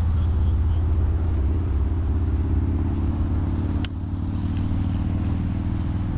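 Steady low rumble of highway traffic with engine hum throughout, and one sharp click nearly four seconds in.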